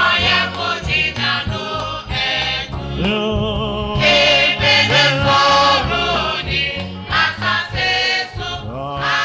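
Gospel choir singing over instrumental backing with steady bass notes.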